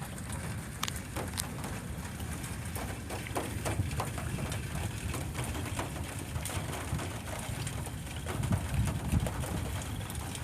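Storm wind buffeting the microphone in a steady low rumble, with light rain ticking in scattered sharp taps.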